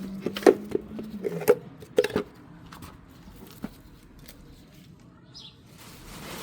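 A handful of sharp clicks and knocks in the first two seconds over a faint low hum, then a single short bird chirp about five seconds in.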